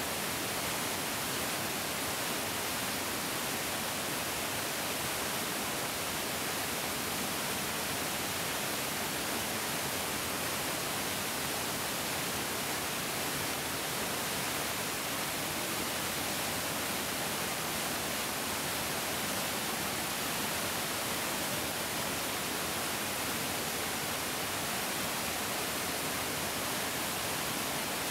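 Large mountain stream flowing, a steady unbroken rush of water with a bright hiss.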